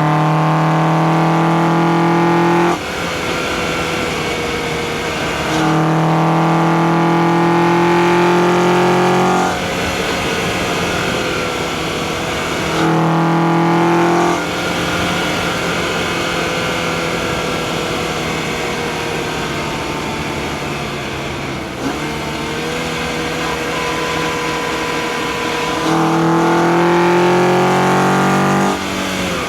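Acura TSX's K24A2 2.4-litre four-cylinder engine pulling hard under throttle four times. Each time its pitch climbs slowly and then drops away suddenly as the throttle is lifted. Between the pulls it runs quieter off throttle, its pitch sinking slowly.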